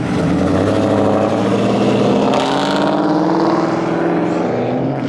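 A car engine revving hard, its pitch climbing slowly for a few seconds and then easing off near the end.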